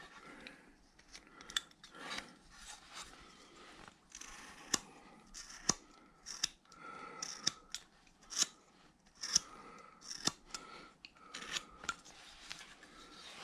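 A hand-carving blade cutting into a wooden figure, cutting back against a line: irregular short crisp cuts and scrapes, roughly one or two a second.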